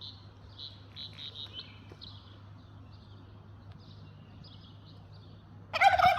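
Birds chirping with short high notes, then near the end a loud, harsh, pitched call from a peacock.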